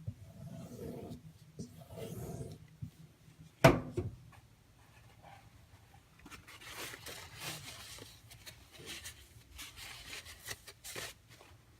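D2 steel knife blade scraping in three strokes about a second apart, then one sharp knock, then a longer run of quicker, fainter scratchy scrapes.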